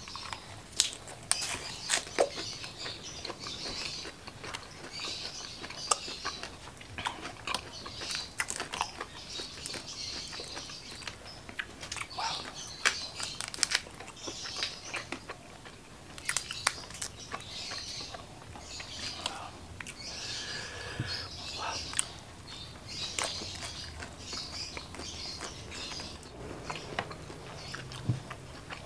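Close-miked eating: biting into and chewing curly lettuce and spicy fried shrimp, with crisp crunches and wet mouth clicks and smacks throughout.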